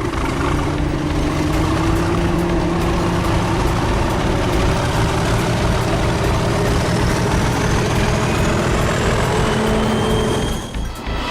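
Heavy engine running steadily with a dense rumble, a dubbed-in freight train sound effect. A faint high whine rises slowly through the second half, and the sound drops away shortly before the end.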